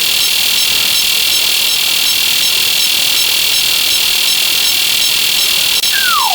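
A steady shrill electronic buzz runs throughout. Near the end a slide whistle starts a falling glide down in pitch.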